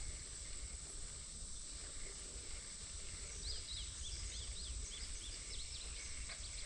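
Outdoor creekside ambience: a steady high-pitched insect drone over a low rumble, with a bird's rapid chirping notes starting about three and a half seconds in.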